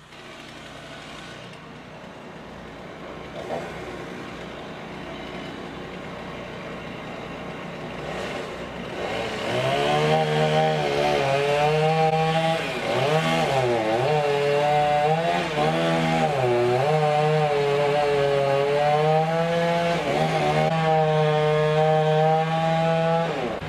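Chainsaw engine, quieter at first. About nine seconds in it goes loud at high throttle, and its pitch sags several times as the chain bogs down in the cut. The pitch drops away just before the end.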